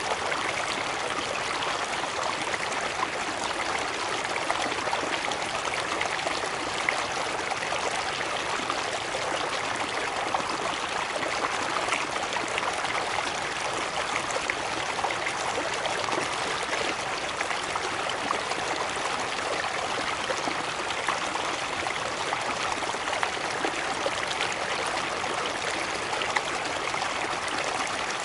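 Water flowing over a small cascade in a stream: a steady rush with many fine splashes and trickles.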